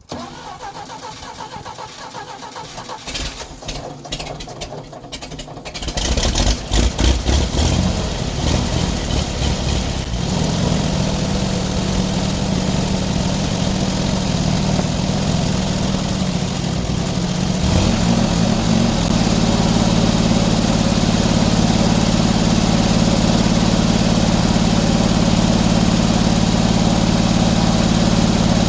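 An engine cranks over for a few seconds, catches about six seconds in, and then runs. It settles to a steady speed and moves up to a higher, steady running speed partway through.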